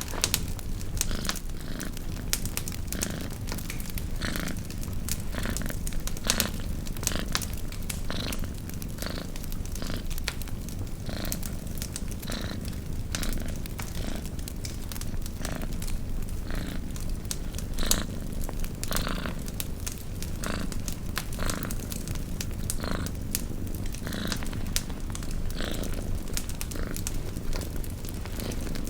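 A domestic cat purring steadily, with irregular sharp crackles and pops from a wood campfire over it.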